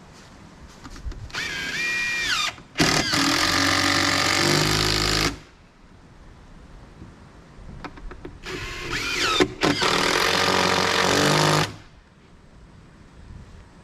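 Power drill driving screws into wood, run twice. Each run winds up with a rising whine, then runs under load for a few seconds before stopping.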